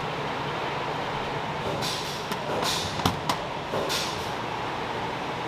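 Steady machine noise with a faint constant tone. About halfway through come a few short hisses and two sharp clicks.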